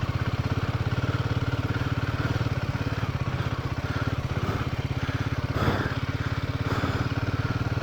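Royal Enfield Himalayan 450's single-cylinder engine running steadily at low speed in a low gear on a loose dirt trail, with an even, fast pulse. There is a brief burst of noise a little after halfway.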